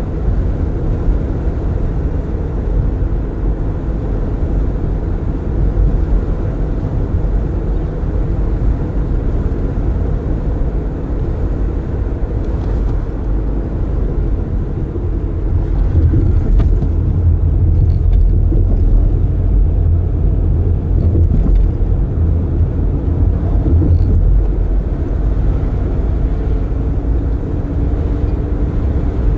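Road noise from inside a moving car with its windows open: a steady low rumble of tyres and wind, louder for several seconds past the middle.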